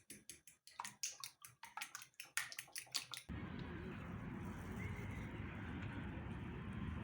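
A run of quick, light clicks or taps, several a second, then about three seconds in an abrupt change to a steady rushing background noise.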